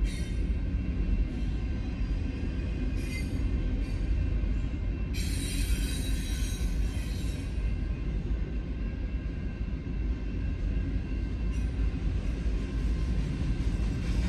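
Union Pacific double-stack intermodal freight train rolling steadily through a grade crossing, a continuous low rumble of wheels on rail. A high-pitched wheel squeal rises for about two seconds midway.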